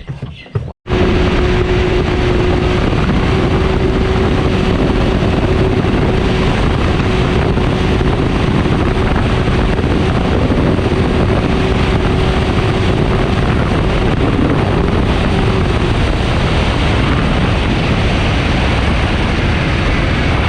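Can-Am Maverick X3 side-by-side driving along a trail: loud, steady engine and wind noise buffeting the microphone, with a faint steady drone running underneath. It starts and stops abruptly at edit cuts.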